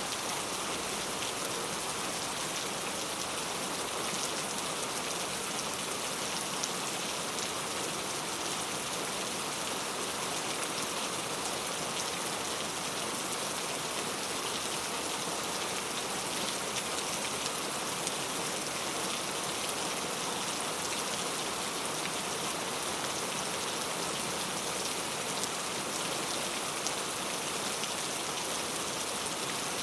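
Heavy rain falling steadily onto hard surfaces, a dense even hiss full of fine drop patter.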